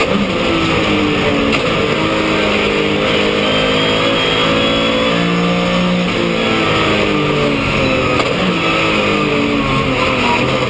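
Porsche 911 (997) flat-six engine under hard acceleration, its pitch climbing and then dropping back at each gear change, several times over.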